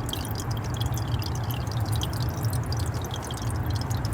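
Water dripping and spattering from a pinhole leak in a pressurized copper water service line, a dense patter of small ticks over a steady low hum.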